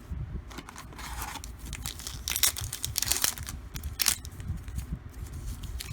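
Trading-card pack wrapper being torn open and crinkled by hand, a run of short crackling tears. The wrapper is flimsy and comes apart easily.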